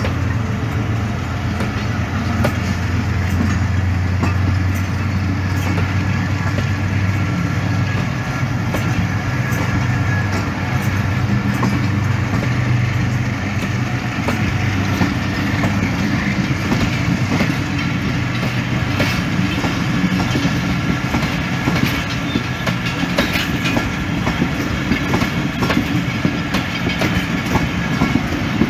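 Pakistan Railways passenger coaches rolling past, a steady rumble of wheels on the rails with irregular clicks from the wheels and rail joints, which grow more frequent in the second half.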